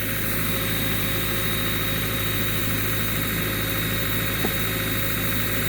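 An engine running steadily at a constant speed, an unbroken hum with a small tick about four and a half seconds in.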